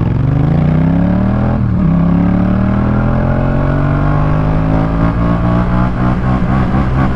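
Yamaha MT-07's 689 cc parallel-twin engine through an aftermarket Jeskap K4 full exhaust, accelerating under load: revs climb, drop sharply at a gear change about a second and a half in, then climb again more slowly and hold.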